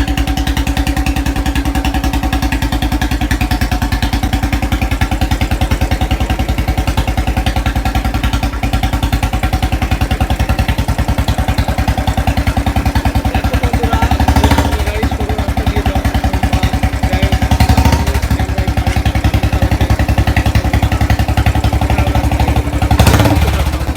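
An engine running steadily with a fast, even pulse, swelling louder briefly three times as it revs.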